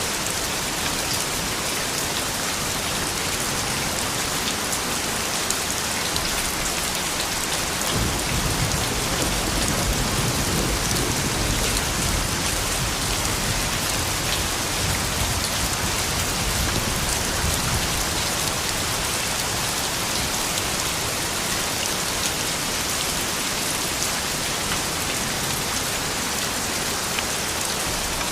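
Steady rain falling, a dense even patter of drops. About eight seconds in, a low rumble swells and fades away over roughly ten seconds.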